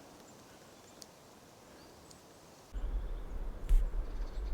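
Quiet forest ambience with a few faint, short high bird chirps. About three seconds in, a low rumble on the microphone starts suddenly and becomes the loudest sound, with one sharp knock soon after.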